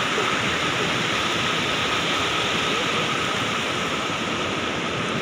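Sea surf: a steady, even rush of water noise with no separate wave crashes standing out, and a thin steady high tone running through it.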